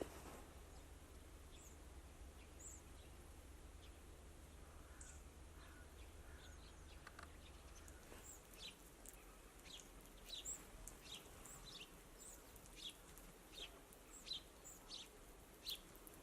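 Faint, short, high chirps from small songbirds, sparse at first and coming more often about halfway through. A low background rumble fades out about seven seconds in.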